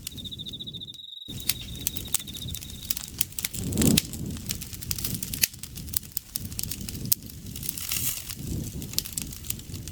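Campfire crackling with frequent sharp pops over a low rustle of burning wood, swelling louder about four seconds in. An insect's steady high trill runs over it and stops about three seconds in; the sound cuts out completely for a moment about a second in.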